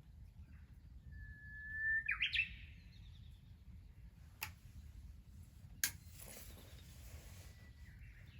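A songbird singing: one long steady whistled note, then a quick loud flourish of notes. Two sharp snaps follow a few seconds later, the second trailing off in a short hiss.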